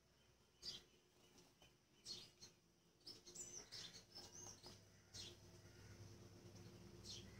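Faint, high, short bird chirps: single calls spaced a second or two apart, with a quick run of chirps around the middle.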